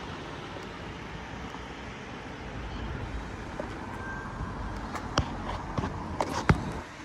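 Road traffic passing, a steady rumble. Several sharp clicks come in the last two seconds, the loudest about six and a half seconds in.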